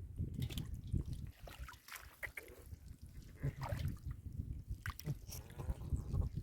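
Hands sloshing and digging in muddy water, with irregular splashes and knocks.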